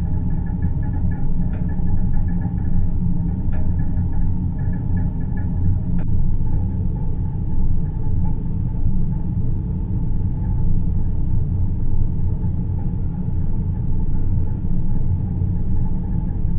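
Deep-space sleep ambience: a steady, deep low rumble with a soft hum over it. Faint high tones flicker and a few faint clicks come in the first several seconds.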